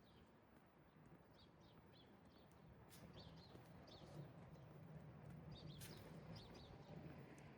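Faint, short bird chirps repeated every second or so over a low steady hum that swells slightly about three seconds in, with a couple of soft clicks.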